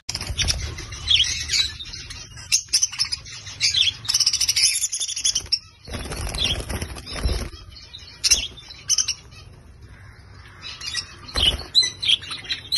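Budgerigars chirping and chattering in short high calls, with a few bursts of wing flapping.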